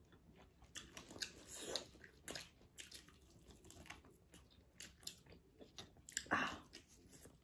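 Close-up mouth sounds of eating a sauced chicken wing: biting and chewing meat off the bone, with many short wet smacks and clicks, and one louder mouth sound about six seconds in.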